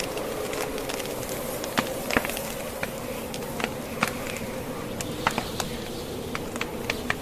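Wood fire in a fireplace crackling, with irregular sharp pops of burning logs over a steady droning hiss of wind from a blizzard.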